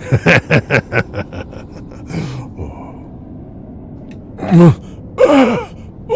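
A man's voice making non-speech sounds: a quick run of short vocal sounds in the first second and a half, then two longer, louder gasps with falling pitch near the end.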